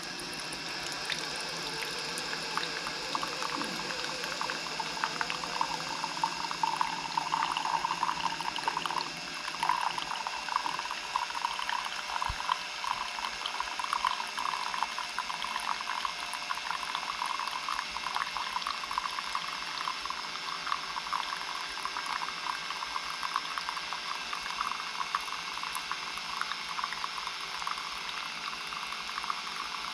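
Keurig K-Mini single-serve coffee maker mid-brew: hot water bubbling through the pod and coffee trickling into the mug, a steady bubbling with dense fine crackles.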